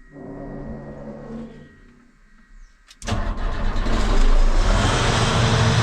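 Self-propelled windrower's diesel engine starting: a quieter hum for the first couple of seconds, then the engine catches about three seconds in and runs loudly. It starts more readily than it has lately, after its battery was charged.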